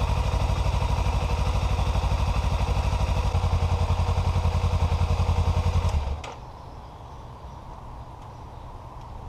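2017 Kawasaki Ninja 300's parallel-twin engine idling steadily just after an oil change, run briefly to fill the new oil filter. About six seconds in it is shut off and the engine sound stops suddenly.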